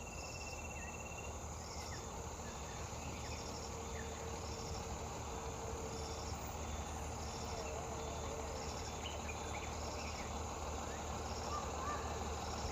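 Insects chirping in a regular rhythm, about one pulsed chirp a second, over a steady high-pitched insect drone.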